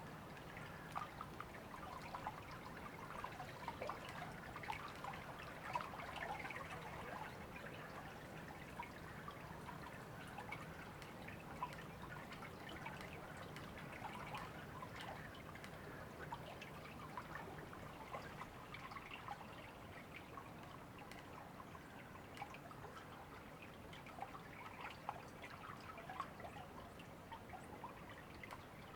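A river running steadily, its water babbling with many small splashes and drips.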